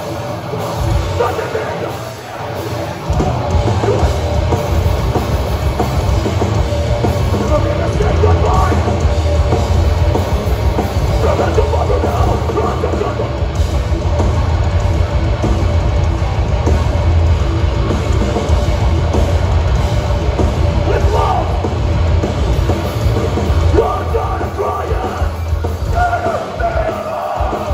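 Live hardcore band playing heavy, distorted rock with a pounding drum kit. It comes in at full, steady loudness about three seconds in.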